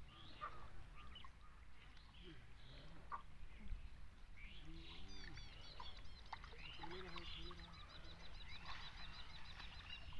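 Faint riverside ambience with scattered high bird chirps; about halfway through a bird starts a rapid, even series of high notes that keeps going. Faint, distant voices are heard under it.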